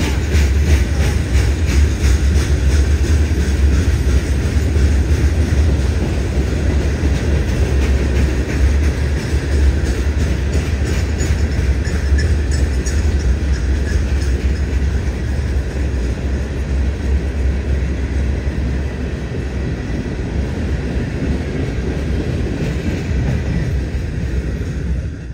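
Herzog ballast hopper cars of a CSX rock train rolling past at close range: a steady low rumble of steel wheels on rail, with quick repeated clicks over the rail joints in the first half, easing slightly toward the end.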